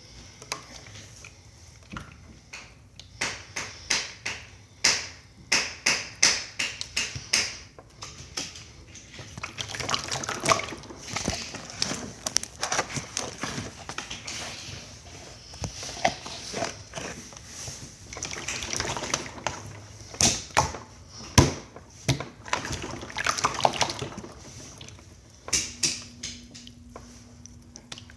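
Slime being squished, stretched and poked by hand: irregular wet squelches with many sharp clicking pops.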